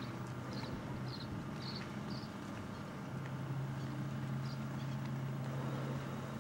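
A steady low engine hum, likely a portable generator running, with a quick string of short high chirps in the first two seconds.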